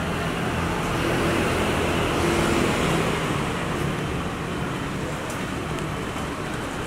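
Street traffic with a vehicle engine running, getting somewhat louder about one to three seconds in and then easing back.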